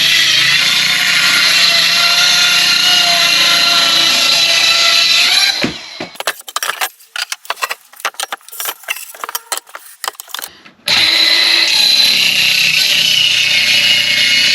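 An electric power tool working wood runs steadily, stops after about five seconds, and gives way to a few seconds of sharp knocks and clatter before it starts up again near the end.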